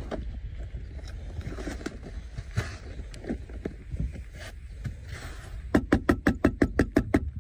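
A steady low rumble with scattered faint knocks, then a quick run of about ten sharp knocks, roughly seven a second, near the end.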